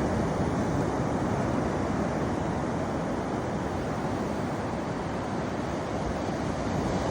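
Steady rushing wind noise on the microphone while riding a bicycle, heaviest in the low end, with no distinct events.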